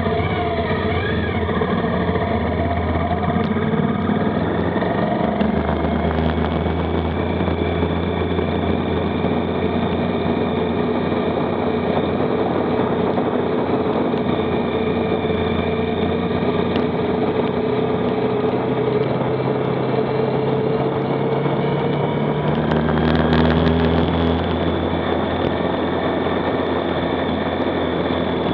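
Motorcycle engine running on the road, its pitch shifting a few times as the revs change.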